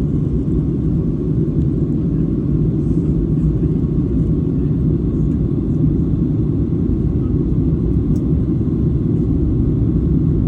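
Steady low rumble inside the cabin of a Boeing 737-800 in flight: engine and airflow noise, unchanging throughout.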